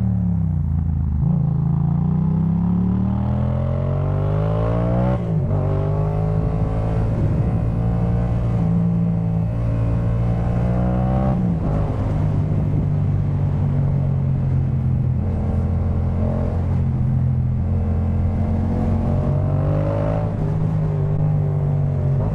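Yamaha MT-07 parallel-twin engine through a Jeskap K4 full exhaust, revving up under acceleration and dropping in pitch at an upshift after about five seconds. It climbs again to a second upshift about halfway through, then runs at a steady cruise.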